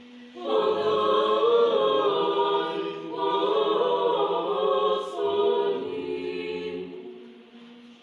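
Several dogs howling together in a long chorus of overlapping wavering howls, with a short break about three seconds in, fading out near the end. A fan hums steadily underneath.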